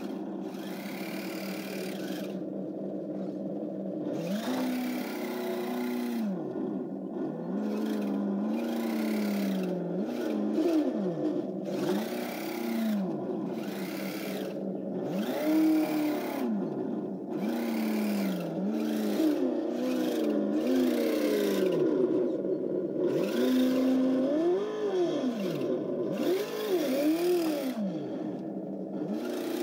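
Engine-sound simulator on a 1/12 Kyosho Blizzard DX radio-controlled snowcat, its engine note revving up and dropping back again and again over a steady hum, with stretches of hiss that come and go as the model drives.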